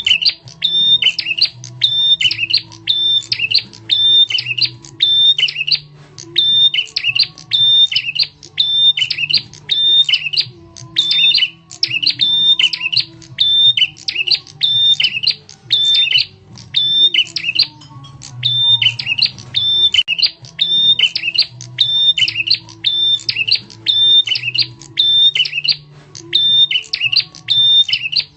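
Prenjak tamu, a small songbird, calling loud and sharp: the same quick chattering phrase repeats about twice a second without a break, as in a bird-lure (pikat) recording. A faint low hum lies beneath.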